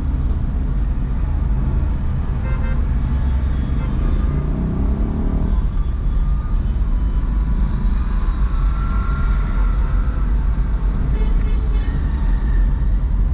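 City road traffic heard from a moving car: a steady low rumble of engines and tyres, with car horns tooting, including one longer horn about eight to ten seconds in.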